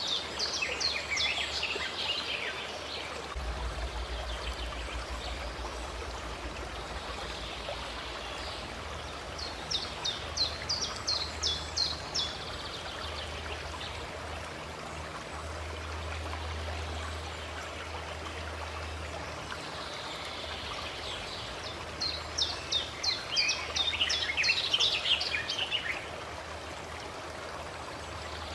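Water from a fountain or spring, running and trickling steadily. Over it a bird sings three times: quick runs of short, high, repeated notes at the start, about ten seconds in, and again over several seconds starting about twenty-two seconds in.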